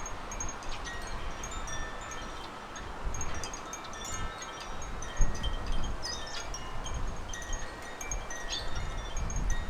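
Small garden birds chirping and calling in many short, high notes, over gusty wind rumbling on the microphone.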